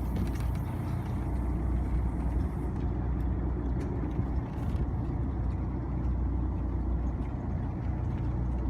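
A boat engine running steadily, a continuous low rumble, with a few faint clicks over it.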